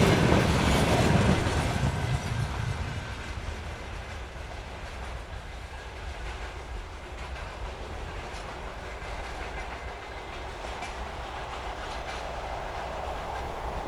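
Train running past on the track. It is loud at first and falls away after about two seconds to a lower, steady rumble.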